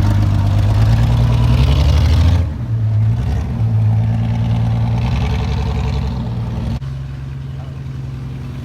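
Truck engine running hard under load, its sound dropping back sharply about two and a half seconds in and again near the seventh second.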